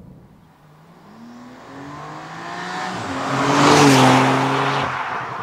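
Alpina B4 Gran Coupé's twin-turbo straight-six, the M3 engine, accelerating hard past the microphone. The engine note climbs in pitch in steps through the gears and is loudest as the car goes by about four seconds in, then drops away as it drives off.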